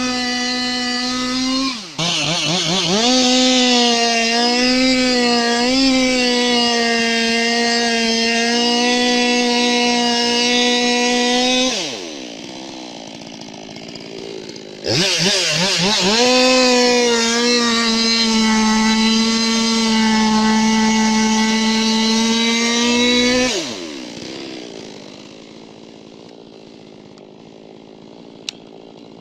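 Two-stroke chainsaw running at full throttle in two long spells, its high whine dipping briefly soon after the first starts. Between the spells, and for the last few seconds, the engine drops back to a much quieter lower note.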